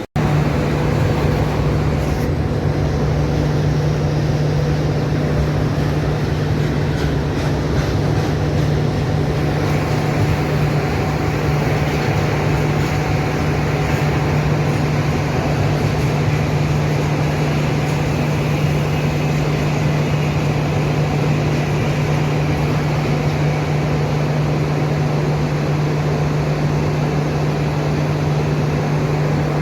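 Train running: a steady rumble with a constant low hum that does not change.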